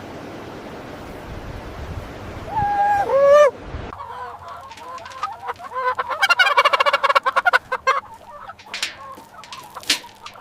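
Domestic fowl calling: two short pitched calls about three seconds in, then a rapid run of pulsed calls from about five to eight seconds, with scattered clicks. A steady hiss lies under the first part.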